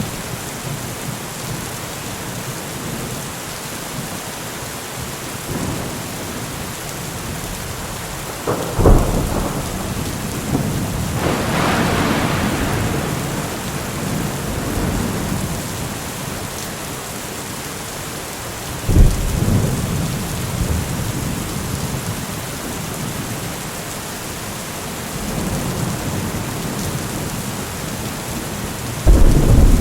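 Steady heavy rain with thunder: sudden loud cracks of thunder about nine seconds in and again near the middle, a longer rolling rumble swelling and fading just after the first, and another loud crack near the end.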